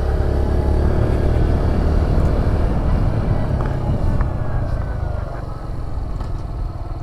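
Motorcycle engine running with a low rumble as the bike rolls along, the sound easing and falling off over the last couple of seconds as it slows.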